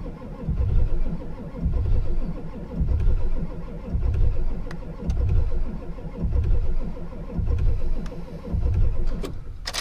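Ford 7.3-litre V8 diesel being cranked over by its starter in a very cold start, running rough and uneven in surges about once a second as it comes close to catching but does not start. The cranking stops near the end.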